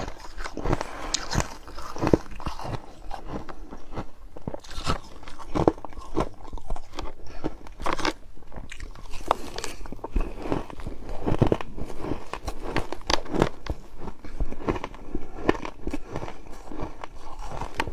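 Close-up chewing of crushed ice: crisp biting and crunching cracks at irregular intervals, one after another.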